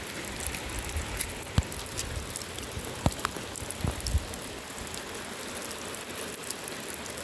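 Steady rain falling, with scattered sharp drops ticking close by. A low rumbling noise sits under it for the first four seconds or so, then eases.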